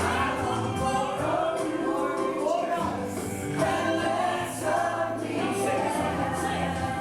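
Gospel worship music: a choir singing sustained lines over a steady bass and light percussion.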